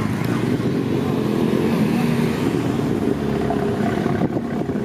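A vehicle engine running steadily at idle close by, a continuous low rumble.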